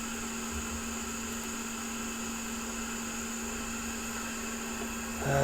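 Steady electrical hum with an even fan-like hiss from running workbench equipment, with no distinct events.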